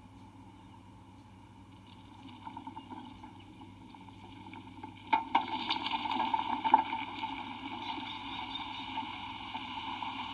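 A magnitude 5.3 earthquake shaking a bald eagle nest camera: a rumbling, rattling noise builds about two seconds in, jumps sharply with a jolt and a few sharp knocks about five seconds in, and keeps going steadily.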